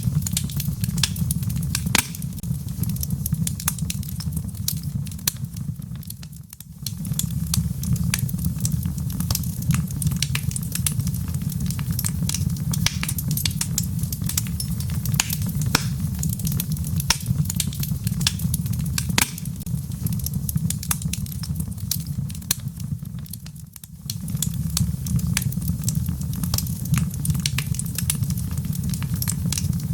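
Wood fire crackling with many irregular sharp pops over a steady low rumble and gentle rain. Twice, the low rumble briefly drops away for about half a second.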